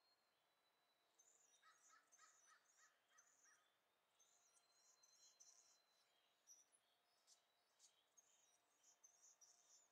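Faint bird calls: runs of short, high chirping notes in several bouts, with a few sharp ticks near the end, over a thin steady high tone.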